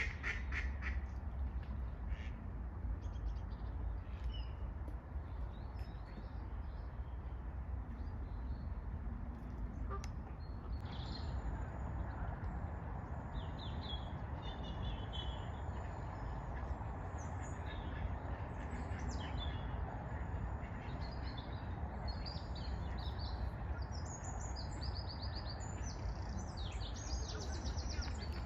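Ducks quacking in short repeated calls, with higher chirping calls scattered through the second half, over a steady low rumble.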